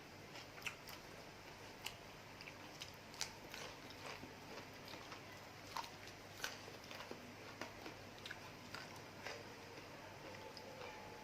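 Close-up eating sounds: faint chewing and biting of a spicy glass-noodle salad with shrimp and squid, with scattered small wet clicks and smacks.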